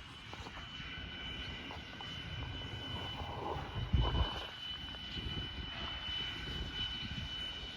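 Distant engine drone, steady with a brief swell partway through, over a faint steady high-pitched whine.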